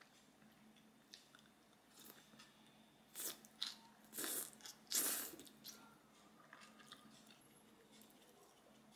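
A person chewing food in the mouth, with a few short crunchy bites a little over three to five seconds in.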